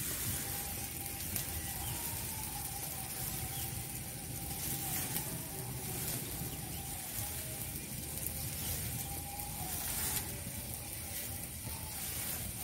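Egg and pumpkin-flower fritters sizzling in a little oil in an iron kadai, nearly done, with scattered crackles and pops.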